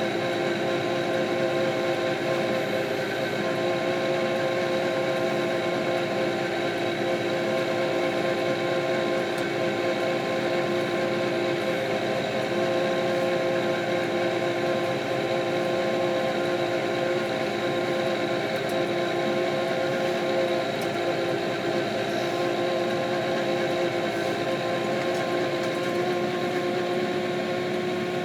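Kioti RX7320 tractor's diesel engine running steadily, with a constant whine on several fixed pitches and no change in speed.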